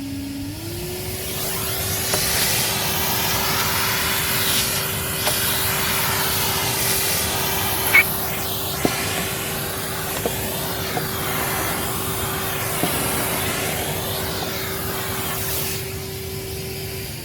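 Vacuum cleaner running, its motor rising in pitch as it spins up in the first second and then holding a steady whine over a wide rushing hiss. Occasional sharp clicks, loudest about eight seconds in, come as metal drilling swarf is sucked up.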